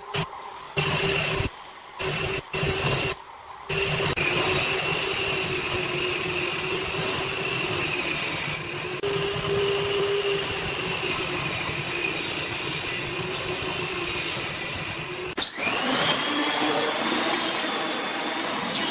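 Electric power tool cutting or shaping wood, its motor whining steadily, with several abrupt breaks. After a break near the end the motor spins up, its whine rising quickly and then holding.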